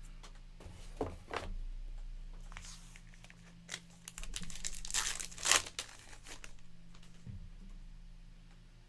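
Trading cards and a pack wrapper being handled: crinkling, rustling bursts in an irregular run, loudest about five seconds in, over a steady low electrical hum.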